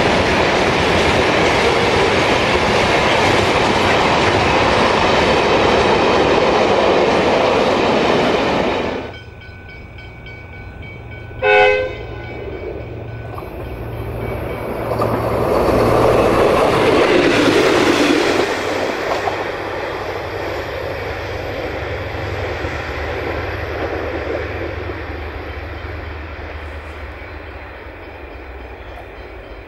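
Freight train hopper and tank wagons rolling past, wheels clattering over the rail joints, until the sound cuts off abruptly about nine seconds in. A single short locomotive horn blast follows, then a train's rumble swells for several seconds and slowly dies away over a low steady drone.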